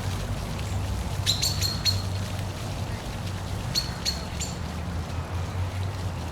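Steady rush of a park waterfall over a low hum, with a bird giving two short series of sharp, high chirps, about a second in and again about four seconds in.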